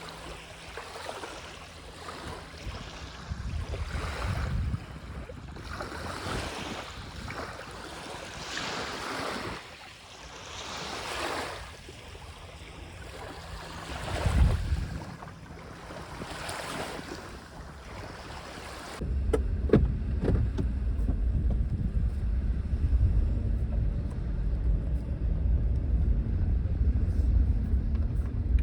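Small waves lapping on a lakeshore, a wash that swells and fades about every two seconds. About two-thirds of the way through the sound cuts to a steady low rumble.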